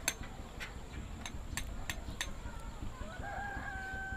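Sharp taps of a hammer and chisel on stone, about six in the first two and a half seconds, then a rooster crowing in one long held call from about three seconds in.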